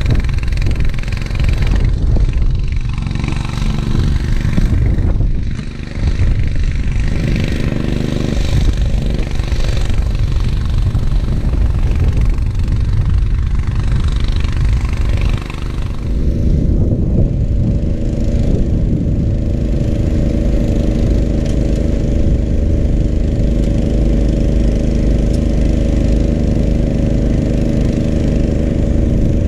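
Gravely 430 tractor engine running under load, driving its 38-inch snowblower, with clattering noise from the blower throwing snow. About halfway through the clatter drops away and the engine runs on at a steady note.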